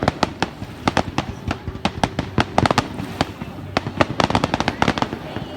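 Fireworks going off: a rapid string of sharp pops and crackles that come in several bunches.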